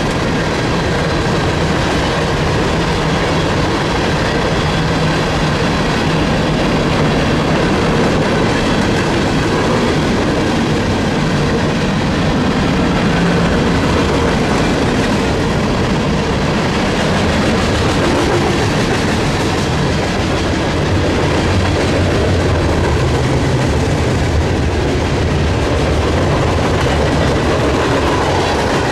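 Freight train cars rolling past, wheels clacking steadily over the rail joints.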